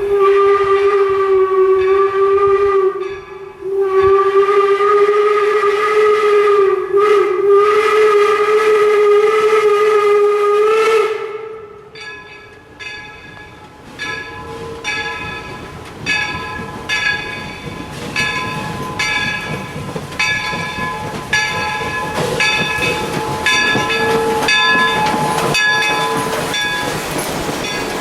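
Steam locomotive whistle blown in two blasts, a short one and then a long steady one of several seconds. After a short lull a bell rings with steady, evenly spaced strokes.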